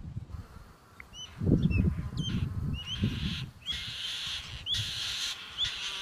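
A small bird giving short, high chirps, repeated about once or twice a second, with low rumbles of wind on the microphone.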